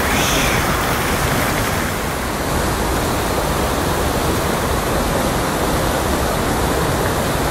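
Waterfall pouring into a pool: a loud, steady rushing of falling water.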